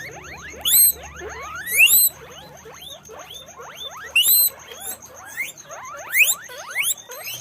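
Guinea pigs wheeking: a rapid run of rising squeals, several each second and overlapping, with a few louder ones standing out.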